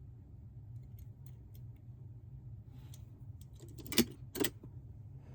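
Light clicks and taps of small toy cars being handled, with two sharper clinks about half a second apart about four seconds in.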